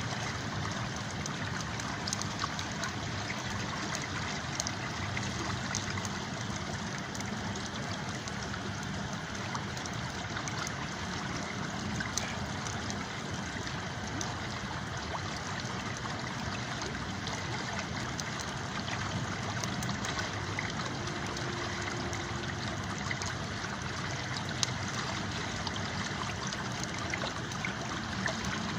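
A river flowing steadily, with occasional sharp crackles and pops from a campfire.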